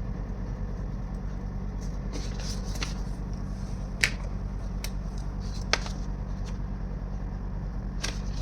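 Folded craft paper being handled: a few short rustles and sharp clicks, spaced apart, over a steady low hum.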